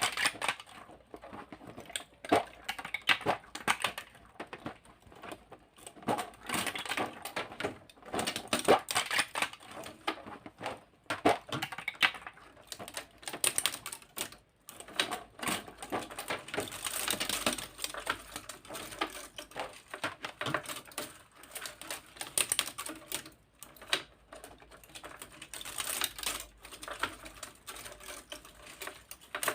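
Dense, irregular clicking and clattering of small hard plastic parts, coming in flurries like typing, from the jointed segments of a 3D-printed giant centipede model being handled.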